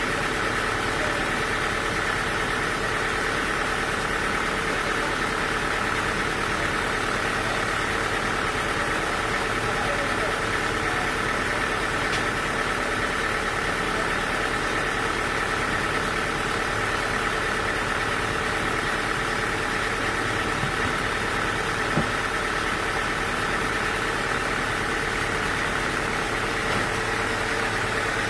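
An engine running steadily at idle, one unchanging drone with a single brief click about three-quarters of the way through.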